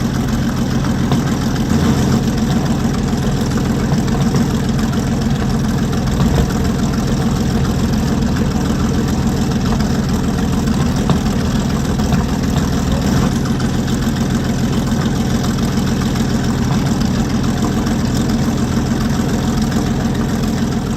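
Panther tank's 23-litre Maybach HL 230 P30 V12 petrol engine running steadily.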